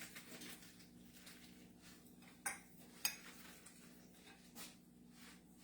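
A utensil clinking against dishes, with a few sharp clinks, the two loudest about halfway through, over a faint steady hum.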